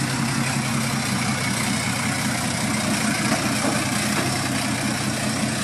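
Engine of an old truck, which the presenter calls a 1925 Russian truck, idling steadily at an even speed.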